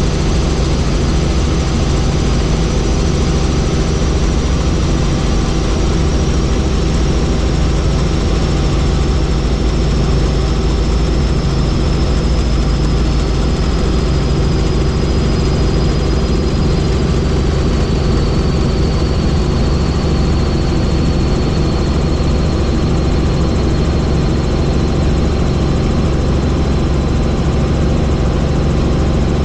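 Helicopter engine and rotor running steadily in a loud, even drone, with a thin high whine slowly falling in pitch.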